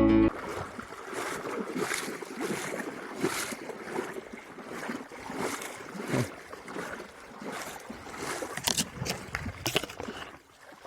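Creek water splashing and sloshing in irregular strokes over a steady rush of running water.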